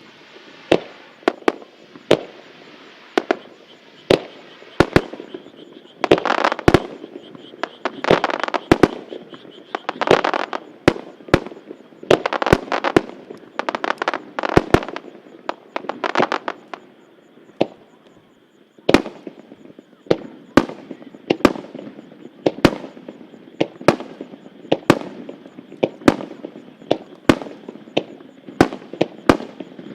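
Star mine fireworks by Kikuya Obata Fireworks: rapid-fire aerial shells bursting in quick succession, dozens of sharp bangs with stretches of dense crackle. There is a short lull just past the middle, then the bangs come thick again.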